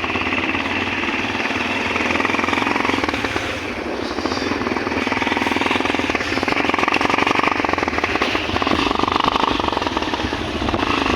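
Yamaha FZ V4 motorcycle's single-cylinder engine running, with a rapid, even pulsing from the exhaust that swells louder several times in the second half.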